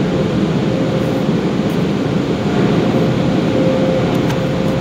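Car-wash equipment running: a steady, loud rushing noise with a faint steady whine.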